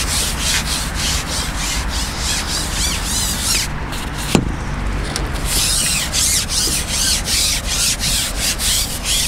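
Close, scratchy rubbing or rustling, repeated irregularly several times a second, with a brief pause about four seconds in.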